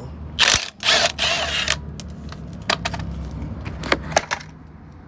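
Metal tools and parts clinking and knocking in several sharp strokes, with a denser rattling scrape lasting about a second near the start, over a low steady hum.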